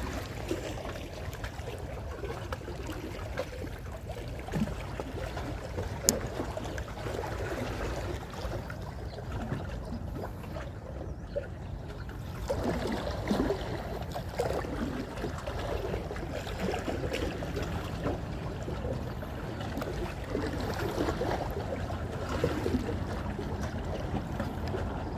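Sea water lapping and sloshing, irregular and splashy, over a steady low rumble, with a single sharp click about six seconds in.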